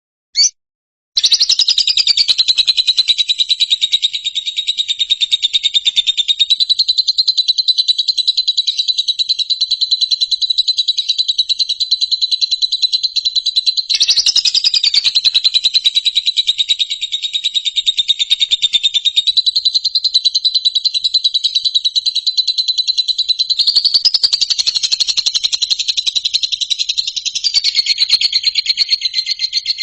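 Three short chirps, then from about a second in a continuous, very fast high-pitched trill that wavers slightly in pitch a few times.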